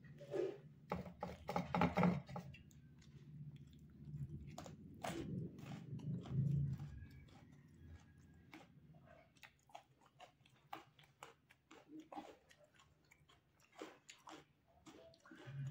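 Close-miked chewing and mouth noises from a mouthful of rice with dal and potato bhujiya: wet smacks and clicks, busiest and loudest in the first seven seconds, then sparser.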